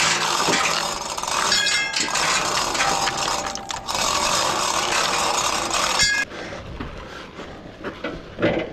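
Metal tools and engine parts scraping and clinking, with a loud steady noise that cuts off suddenly about six seconds in.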